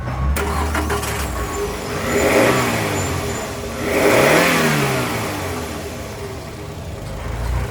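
2007 Toyota RAV4 engine idling and revved twice, each rev climbing and then falling back to idle, about two seconds in and again near the middle.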